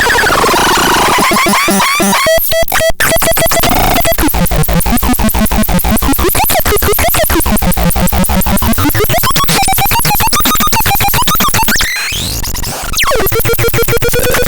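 Harsh electronic synthesizer noise: rapid pulsing with tones sweeping up and down in pitch, briefly thinning out about two seconds in and again near the end.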